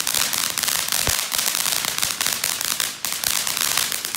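Consumer ground fountain firework burning with dense, rapid crackling over a steady hiss.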